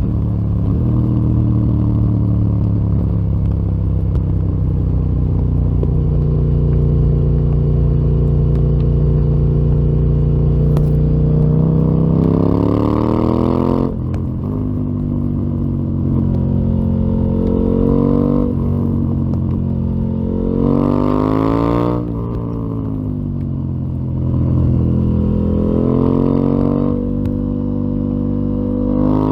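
KTM 890 Duke R parallel-twin engine running through a full Akrapovic exhaust under way. The engine note climbs slowly for about twelve seconds, then rises sharply and drops suddenly several times as the gears change.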